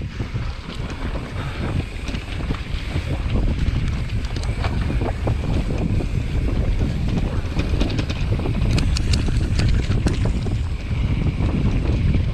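Wind buffeting the microphone of a moving mountain bike rider, a loud low rumble. Scattered sharp clicks and knocks come through, most of them bunched together around three-quarters of the way in.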